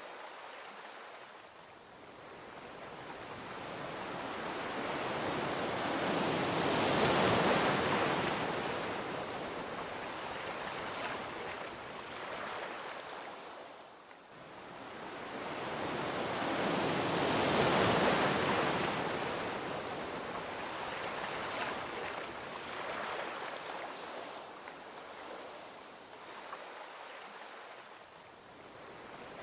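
Gentle ocean waves rolling onto a beach: two waves swell up and break, the first peaking about a quarter of the way in and the second about halfway through, each washing back down into a soft hiss before the next.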